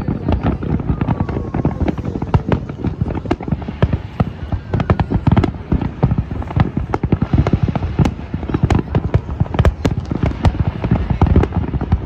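Fireworks display: many shells bursting in quick succession, a dense, unbroken run of bangs and crackles.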